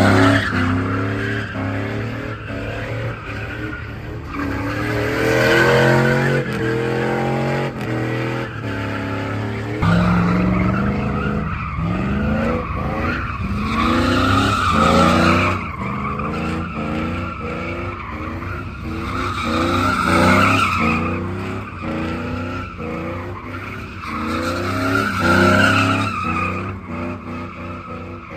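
A vehicle spinning donuts: the engine revs up again and again, about every five seconds, while the tires squeal and skid on the pavement.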